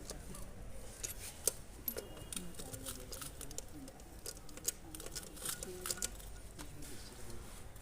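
Scattered, irregular light metallic clicks and taps of hand tools and parts being handled while an engine is dismantled.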